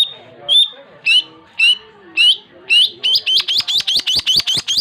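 Long-tailed shrike (cendet) singing: sharp rising chip notes about two a second, quickening about three seconds in into a rapid rattling run of about seven notes a second.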